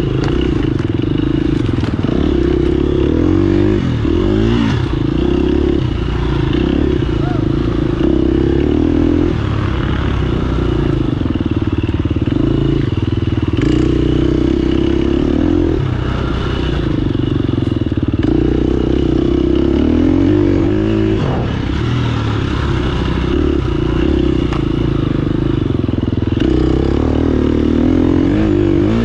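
Off-road dirt bike engine running hard through the race course, its revs rising and falling with the throttle, with clattering from the bike over rough ground.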